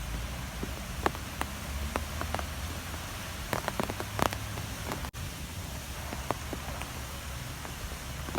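Storm wind blowing, a low rumble under a steady hiss, with scattered sharp ticks like raindrops striking a surface. The sound drops out for an instant about five seconds in.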